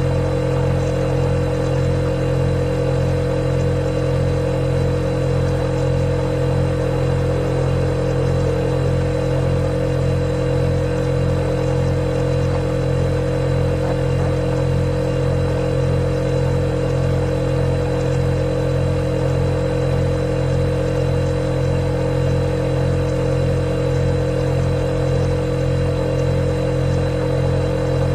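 Refrigerator compressor running, a steady hum with a clear tone over a low drone and an even hiss that does not change.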